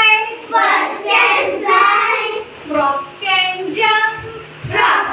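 Young children singing a simple English action song together, in short repeated phrases.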